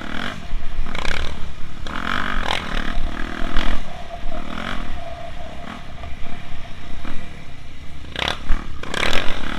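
Dirt bike engine running over rough ground, with rattling and scraping throughout and a few sharp knocks near the end.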